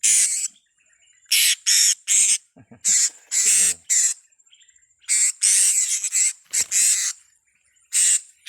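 Blue-crowned hanging parrots (serindit) calling: a run of short, shrill, harsh squawks in irregular clusters, with a faint steady high tone in the gaps.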